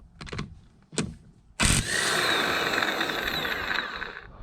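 Impact gun running in reverse, undoing a wheel nut: a few short clicks, then the gun starts suddenly about a second and a half in and runs steadily for about two and a half seconds before dying away.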